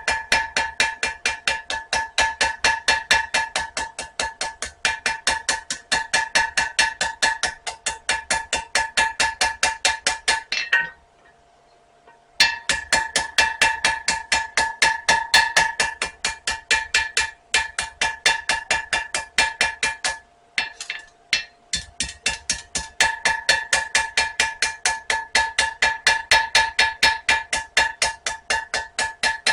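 Steady rapid hammer blows on hot spring steel over an anvil, about four a second, each with a ringing anvil tone, while the stock is rounded. The hammering stops for about a second and a half about 11 s in, then resumes with a couple of short breaks.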